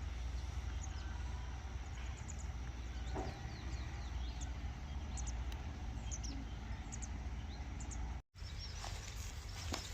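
Outdoor ambience: scattered short, high bird chirps over a steady low rumble. The sound drops out completely for a moment about eight seconds in.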